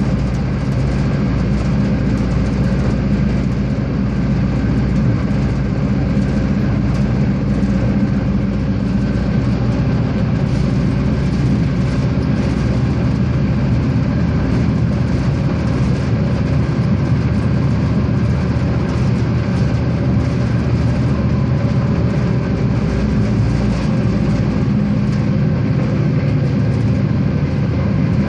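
Regiosprinter diesel railcar running along the line, a steady engine drone with wheel and rail noise throughout.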